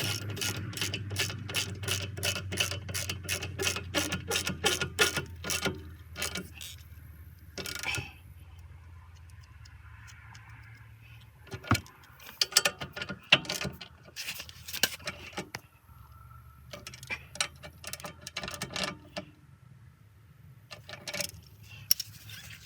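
Ratchet wrench clicking in quick runs, about four clicks a second, as bolts on the brake caliper assembly are turned, with pauses and shorter runs later.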